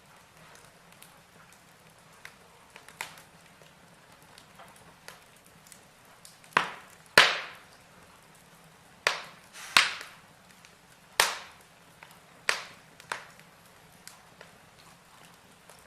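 Burning logs in a fireplace crackling: scattered small crackles, with a run of louder, sharp pops through the middle.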